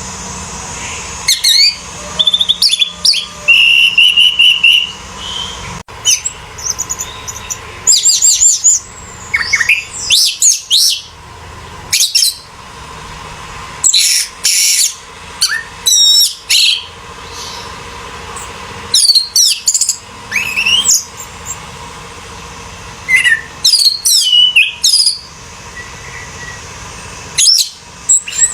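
Orange-headed thrush singing a varied song of quick whistled and chattering phrases, delivered in bursts with short pauses between them.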